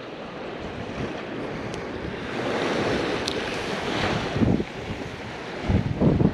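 Ocean surf washing onto the beach under strong wind, with wind buffeting the microphone; the wash of the surf swells about midway, and heavier low gusts hit the microphone near the end.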